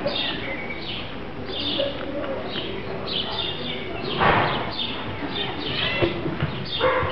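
Small birds chirping over and over: short, high chirps that fall in pitch, several a second. A short breathy burst of noise comes about four seconds in.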